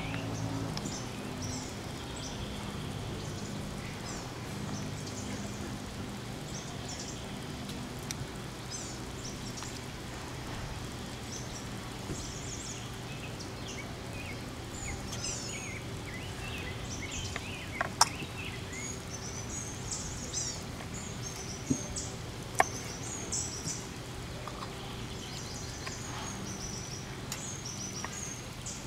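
Small songbirds chirping and calling, over a steady low hum, with a few sharp clicks past the middle.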